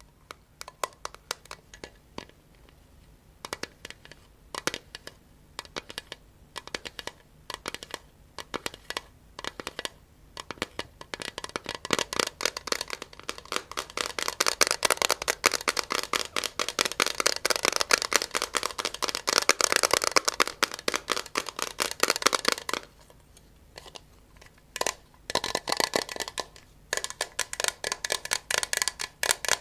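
ASMR tapping on objects close to the microphone: slow, separate taps for about the first ten seconds, then fast, continuous tapping for about ten seconds. After a short pause, the tapping starts again near the end with a faint ringing tone.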